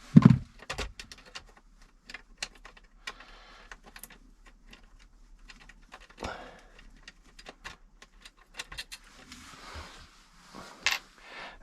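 Objects being handled and moved about: a knock just after the start, then scattered light clicks, rattles and rustling, with a sharp click near the end.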